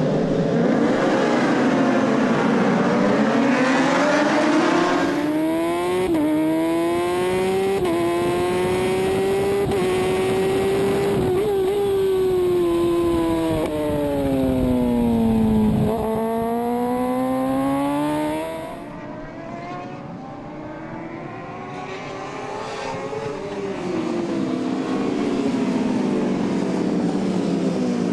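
Racing superbike engines at high revs, the pitch climbing and dropping through gear changes. A long drop in pitch comes a little past halfway, and after a brief quieter stretch another bike's engine builds up again.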